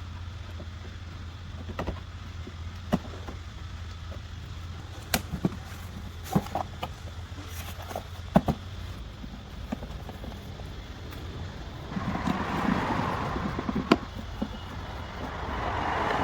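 Scattered sharp clicks and knocks of tools and parts being handled during car repair work, over a steady low hum. A rushing hiss comes in about twelve seconds in, lasts about two seconds, and returns briefly near the end.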